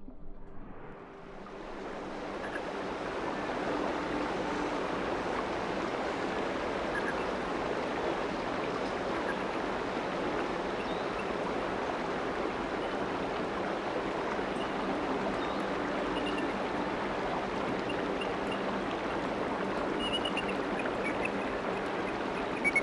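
Rushing stream water running steadily over rocks, a continuous rushing noise that fades in over the first couple of seconds.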